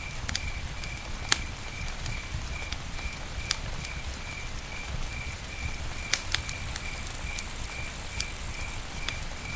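Campfire crackling, with scattered sharp pops over a low rumble of burning wood. A cricket chirps steadily, about three chirps a second.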